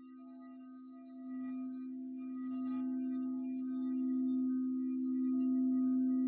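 Singing bowl sounding a steady, sustained low tone with a slight beating second tone, swelling louder throughout while fainter higher overtones come and go.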